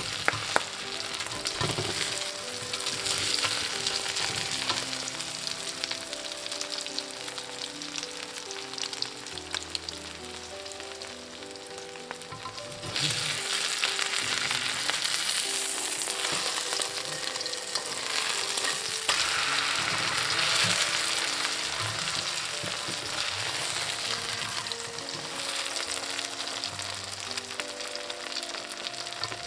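Oyster omelette frying in shallow hot oil in a wok: a steady sizzle and crackle of oil, louder from about halfway through.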